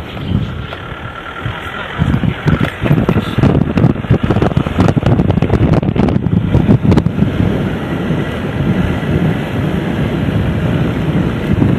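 Wind buffeting the microphone: a loud, gusty rumble that swells and dips.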